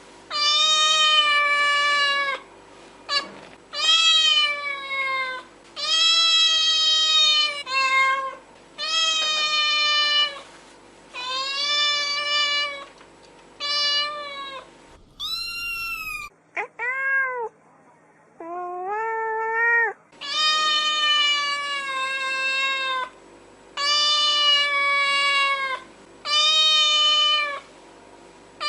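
Domestic cats meowing: a long series of drawn-out meows, most one to two seconds long, coming about one every two seconds. Near the middle a few higher, shorter meows break in.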